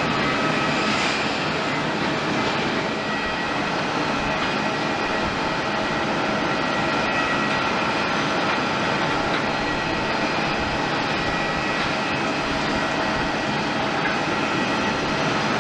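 Jet aircraft engines running steadily: a broad, even rush of noise with several steady whining tones above it.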